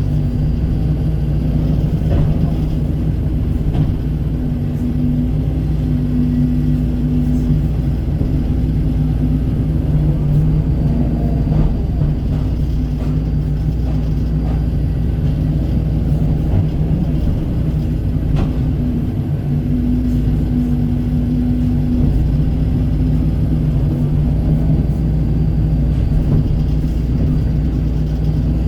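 Kobelco excavator's diesel engine running steadily at working speed. A higher tone swells twice, about five and twenty seconds in, with a few faint knocks along the way.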